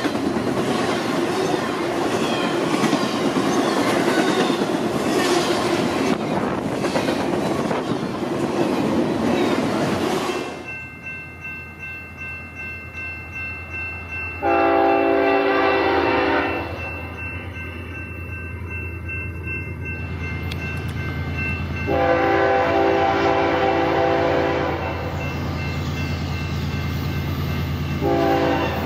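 Double-stack intermodal freight cars rolling past close by with steady wheel and rail clatter. About ten seconds in this gives way to an approaching BNSF diesel locomotive's steady engine drone and its multi-note air horn, sounded in two long blasts, with a third starting near the end.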